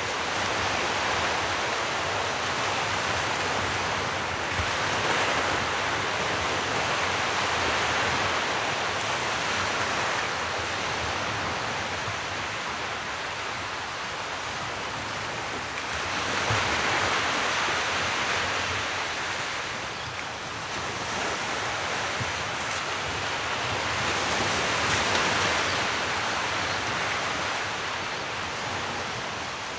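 Sea waves washing onto the shore. The surf swells and falls back in slow surges about every eight to ten seconds under a steady rush of water.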